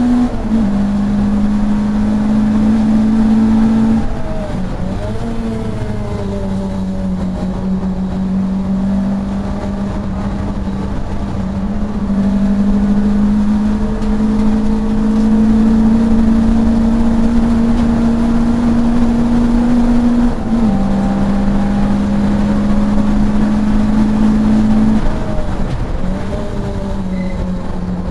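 Racing saloon car's engine heard from inside the car at speed, holding a steady high note that steps slightly up and down. The note dips briefly twice, about four seconds in and near the end.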